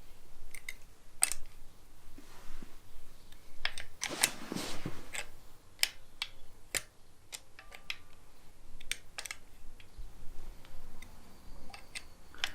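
Irregular sharp clicks and taps of a hand tool working the bolts that hold a pressure washer's pump housing, tightened a little at a time, with a brief rustling scrape about four seconds in.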